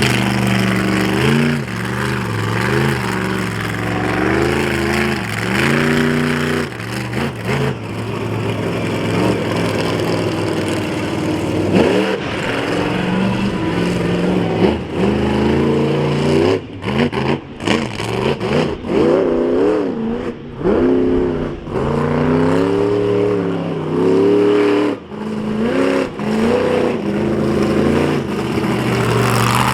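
Monster truck engine revving hard over and over, its pitch climbing and falling as the throttle is blipped through a freestyle run, with several brief sudden drops in the sound in the second half.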